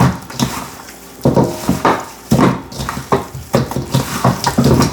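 Gloved hands rubbing dry jerk seasoning into raw chicken pieces in a bowl: irregular squishing and rubbing noises, several bursts a second apart.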